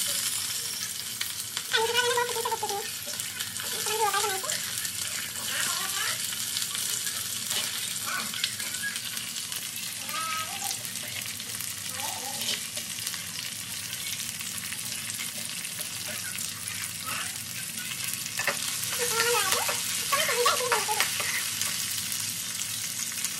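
Green peas and chopped capsicum sizzling steadily in hot oil in a kadai as they are stirred with a slotted spatula.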